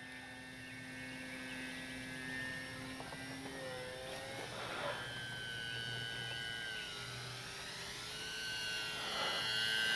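Electric brushless motor and propeller of an E-flite Sportix RC plane whining in flight, its pitch sliding down and back up and growing louder near the end.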